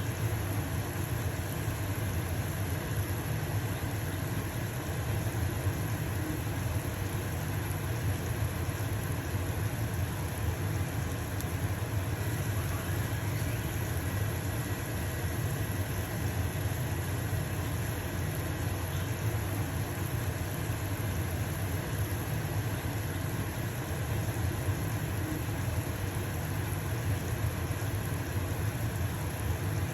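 Stove-top range-hood fan running steadily with a low hum, over the even sizzle of a pancake frying in a pan.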